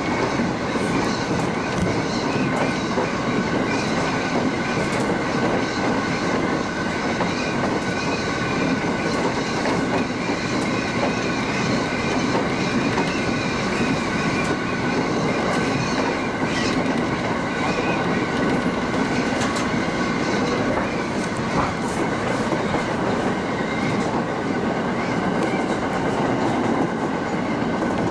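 Local passenger train running along the track, heard from inside the car: steady rumble of wheels on rail with a clickety-clack and a steady high wheel-and-rail ringing.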